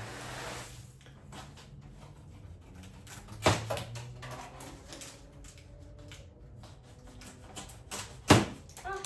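Scattered knocks and clicks of things being handled, with two sharp thumps about three and a half seconds and eight seconds in.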